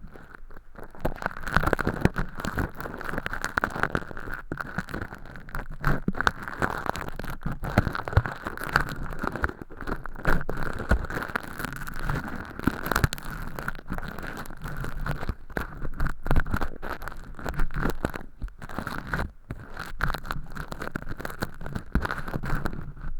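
Earpick scraping inside a silicone ear model's canal, with close, dense crackling and scratching as flaky thin-skin fake earwax is picked and peeled off. The scratches come irregularly and without pause, apart from a brief lull about three-quarters of the way in.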